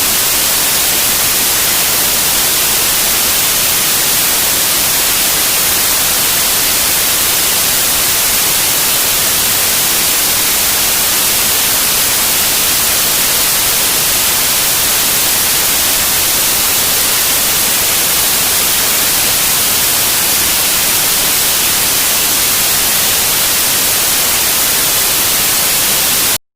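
Radio receiver static with no signal coming through: a steady, loud hiss, strongest in the highs, that cuts off suddenly at the very end.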